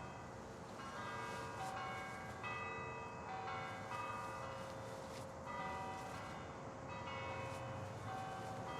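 Bells ringing: a run of struck, ringing notes at several different pitches, overlapping one another, over a low steady background hum.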